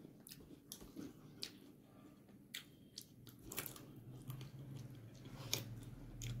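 A person chewing a mouthful of rice with fish roe pickle, with faint, irregular wet mouth clicks and smacks.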